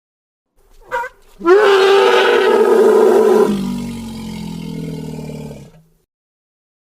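Elephant calling: a short squeak about a second in, then a loud, high trumpeting call for about two seconds that drops into a lower, quieter roar and stops abruptly near six seconds.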